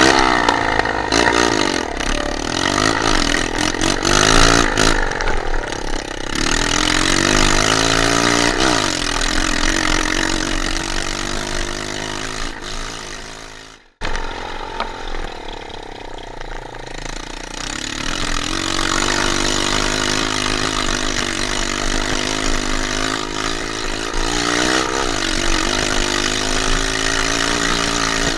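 Dirt bike engine idling and being revved, its pitch rising and falling repeatedly. The sound cuts out abruptly about halfway through, then the engine sound resumes.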